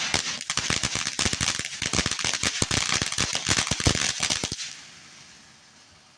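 Consumer fireworks going off in a rapid, dense string of crackling bangs that stops abruptly about four and a half seconds in, leaving a fading hiss.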